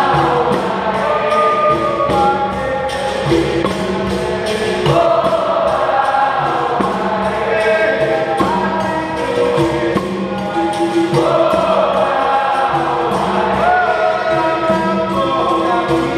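Capoeira Angola roda music: a chorus of voices singing together over berimbaus and hand percussion keeping a steady, quick beat.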